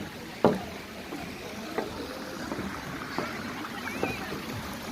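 Steady background hubbub with faint scattered voices. A single sharp knock comes about half a second in, and a brief high wavering call near the end.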